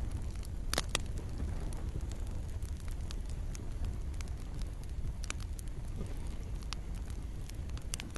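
Campfire crackling: irregular sharp pops and snaps from burning wood over a low steady rumble, with two louder pops close together about a second in. Steady rain hiss runs underneath.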